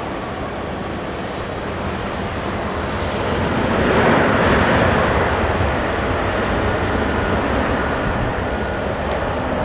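Jet airliner passing, its engine roar swelling to a peak about four seconds in and then slowly fading.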